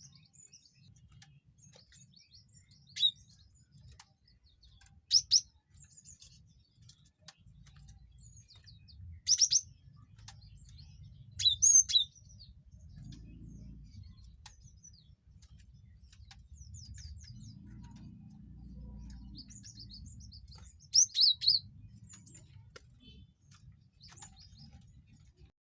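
Cinereous tit (gelatik batu) calling: loud, sharp high chirps in short clusters about five times, over fainter rapid twittering, with a low rumble underneath.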